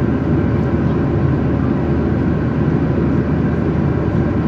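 Jet airliner cabin noise in cruise flight: a steady, even rush of engine and airflow, heaviest in the low range.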